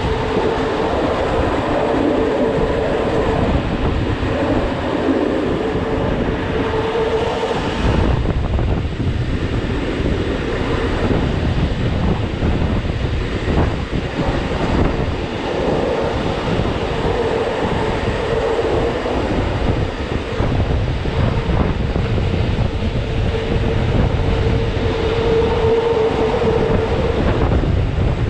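Rhaetian Railway train led by an ABe 8/12 electric unit running along the Bernina line, heard from outside a carriage window: a steady rumble of wheels on rail. A humming tone comes and goes three times over it.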